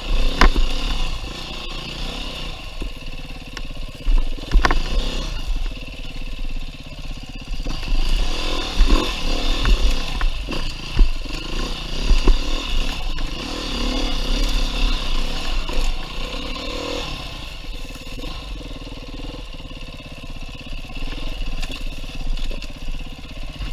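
Beta 390 RR-S single-cylinder four-stroke dirt bike engine revving up and down unevenly as it is ridden through tight single track, with scattered knocks and scrapes from the bike and the trail.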